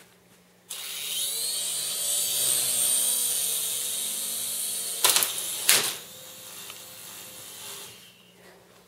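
RC helicopter's motor and rotor starting suddenly with a high whine that wavers in pitch. Two sharp knocks come about five and six seconds in, after which it runs more quietly and stops near the end.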